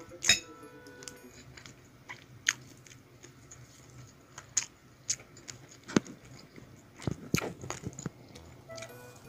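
Close-miked eating: chewing and mouth sounds while eating pieces of stewed beef balbacua by hand, with a scattering of sharp clicks, several close together about seven to eight seconds in.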